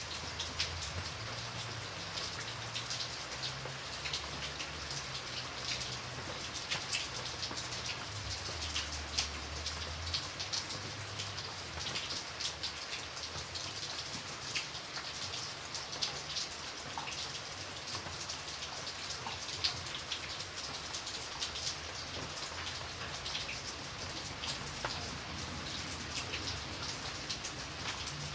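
Steady rain falling, with many individual raindrops ticking sharply on a hard surface over an even hiss.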